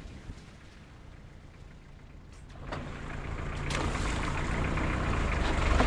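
A motor vehicle's engine running with a steady low hum, growing louder from about three seconds in as it comes closer or revs.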